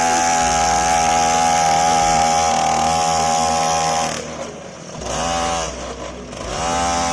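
Small motor of a homemade mini tractor running steadily, its pitch dropping and coming back up twice past the middle, as if briefly loaded or throttled down.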